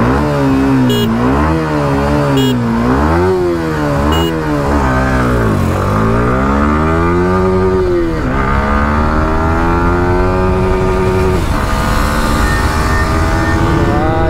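Single-cylinder sport motorcycle engine at full throttle in a drag race, revving up and dropping at each upshift through the gears. The shifts come quickly at first and then with longer pulls, until it holds high, nearly steady revs at speed.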